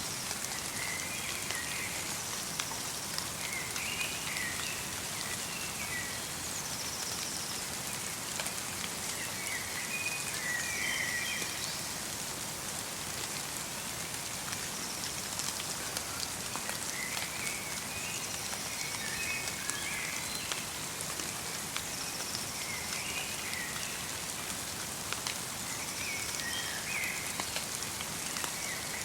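Steady light rain pattering in a forest, with small birds giving short chirping calls every few seconds, a few of them with thin high notes.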